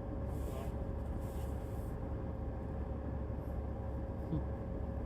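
Steady low hum inside a car, with a faint constant tone over it and two short, soft bursts of hiss in the first two seconds.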